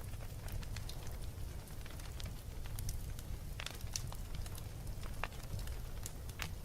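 Fire crackling in a fireplace: a steady low rumble of flame with scattered sharp snaps and pops, a few louder ones in the second half.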